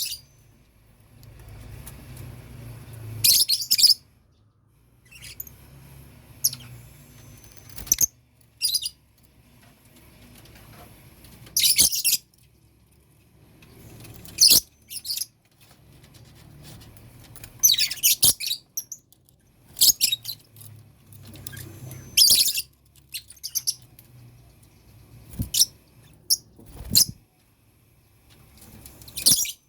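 Lovebirds giving short, shrill chirps in irregular bursts every second or two, with a few sharp clicks between the calls.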